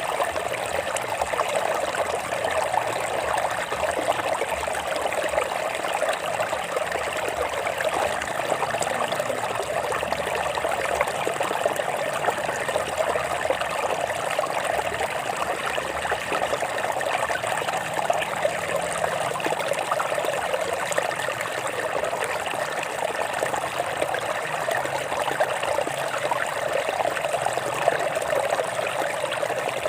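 Water trickling and splashing over rocks in a stream, a steady continuous babble.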